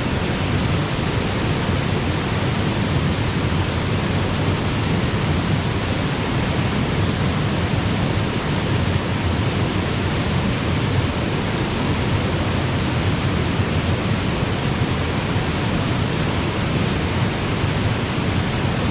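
Waterfall and mountain stream rushing: a steady, dense roar of falling and flowing water.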